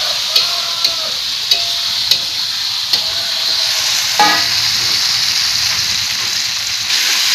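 Ground chili and spice paste sizzling as it is sautéed in hot oil in a wok, stirred with a spatula that scrapes and taps the pan about every half second in the first few seconds, with one louder scrape about four seconds in. The paste is frying until fragrant, before the meat goes in.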